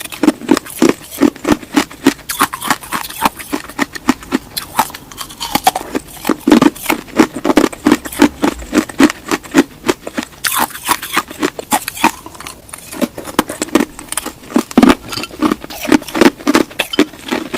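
Close-miked eating: rapid crunching and chewing, many sharp crunches a second in irregular bursts.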